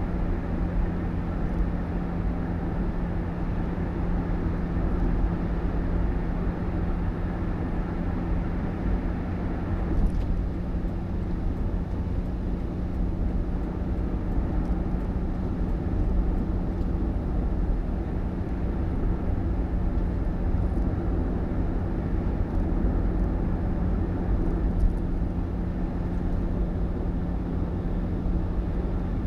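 A motor vehicle running steadily: an even low rumble with a constant hum.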